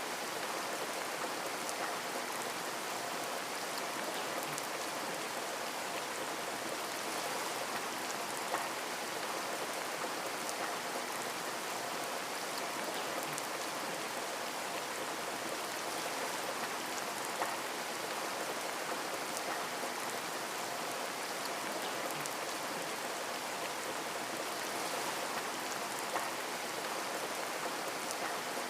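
Steady rain pattering on a window, a dense even hiss with scattered individual drop taps, a few slightly louder than the rest.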